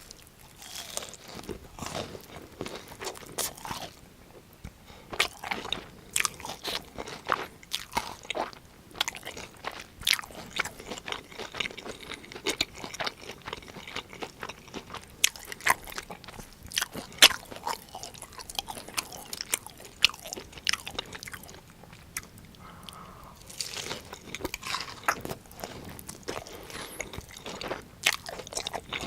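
Close-miked crunching bites and chewing of crispy fried breaded cheese pork cutlet (donkatsu), many sharp crackles in an irregular run.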